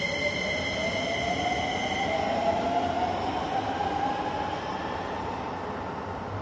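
Keisei 3000 series electric train pulling out, its traction motors giving a whine that rises in pitch as it accelerates away, over steady running rumble.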